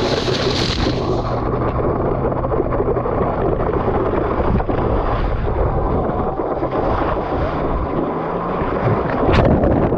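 Jet ski engine running steadily under heavy wind buffeting the microphone, with a brief louder hit near the end.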